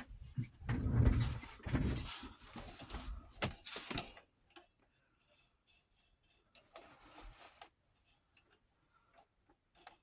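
Handling of an 8mm film viewer: rustling and a few sharp clicks for about four seconds, then faint scattered ticks.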